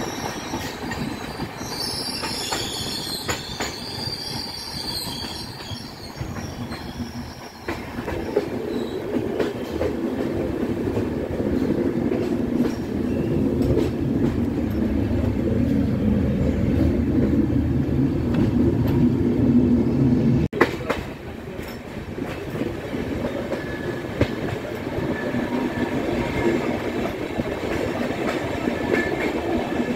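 A train's LHB passenger coaches rolling along the track, heard from the open doorway: a continuous rumble of wheels on rails that grows louder in the middle. There is high wheel squeal on a curve near the start and again faintly near the end.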